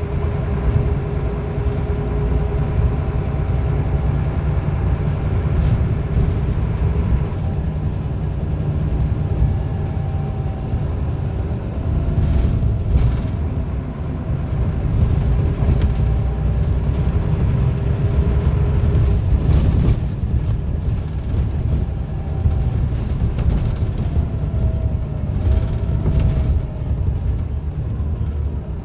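Scania L94UB single-deck bus under way: a steady low rumble from its engine and running gear, with faint whining tones from the ZF automatic gearbox drivetrain that shift in pitch several times.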